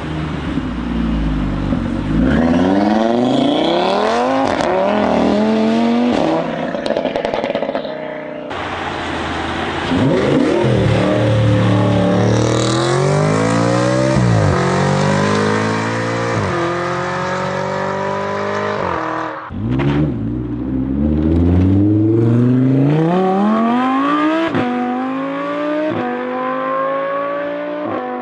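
Audi car engines accelerating hard, pitch climbing and dropping back again and again as they shift up through the gears, in three separate recordings that change abruptly about eight and a half and about nineteen and a half seconds in.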